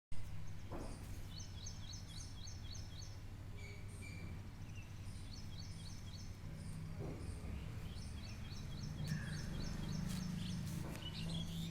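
A bird chirping in quick runs of about six high notes, repeated several times, over a steady low hum.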